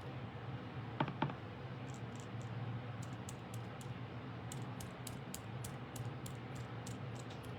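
Sponge dauber dabbed rapidly on cardstock to blend ink onto die-cut leaves: light quick taps, about four or five a second, after two sharper clicks about a second in.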